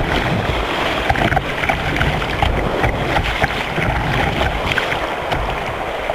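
Water rushing and splashing around a surf kayak, with an uneven low wind rumble on the microphone.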